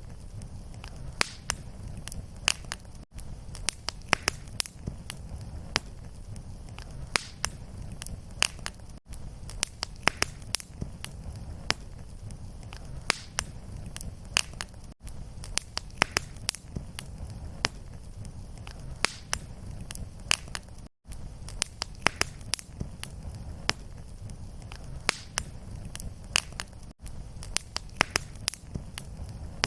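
Wood fire crackling in a fireplace: frequent sharp pops and snaps over a steady low rumble. The sound dips briefly about every six seconds.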